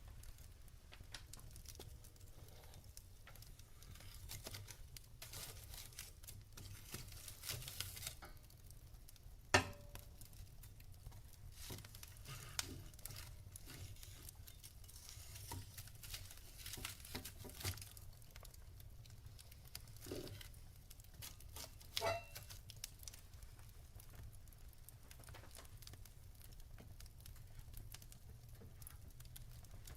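Wood fire burning in a fireplace: logs crackling with a steady scatter of small ticks and a few louder sharp pops, the loudest about ten seconds in and another a little after twenty seconds, over a low steady hum.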